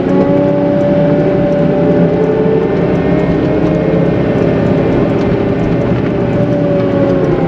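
CAT 906M compact wheel loader's diesel engine running steadily while plowing heavy slush, its pitch dropping slightly near the end.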